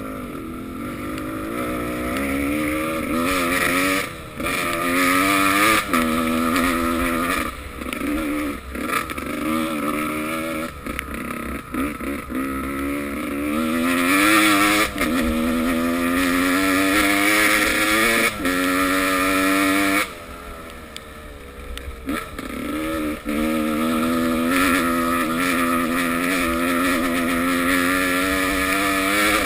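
Motocross bike engines revving and changing gear, the engine note repeatedly climbing and dropping. The sound falls quieter for a few seconds about two-thirds of the way through.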